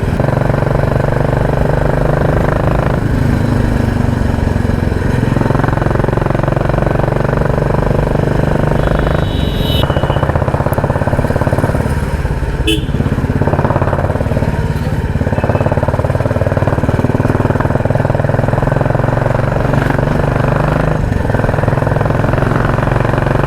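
Royal Enfield Classic 350's single-cylinder engine running steadily under way, its loud exhaust heard from the moving bike.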